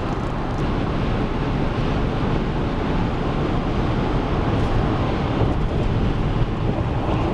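Steady road and wind noise of a car travelling at highway speed, heard from inside the moving car.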